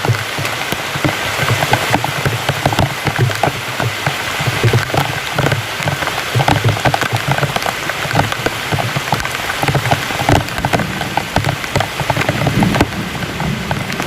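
Heavy rain falling steadily, a constant hiss with many separate drops striking close by.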